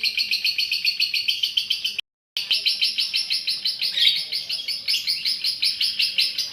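Female lovebird's long ngekek chatter: an unbroken fast run of shrill chirps, about ten a second, cut by a brief gap of silence about two seconds in.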